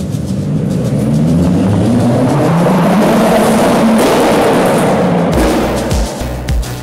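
Car engine revving and accelerating in an underground car park, rising in pitch and getting louder over the first few seconds. About five seconds in it cuts off sharply and dance music with a heavy kick-drum beat takes over.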